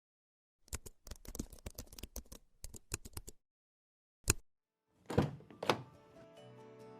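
A quick run of sharp, irregular clicks and taps for a few seconds, then one more click. Two heavier knocks follow, and soft music swells in toward the end.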